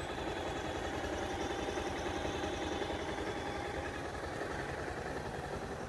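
Bajaj Pulsar 220's single-cylinder engine idling steadily after its timing chain and scissor gear were replaced. The owner calls the rebuilt engine completely silent, with no tick.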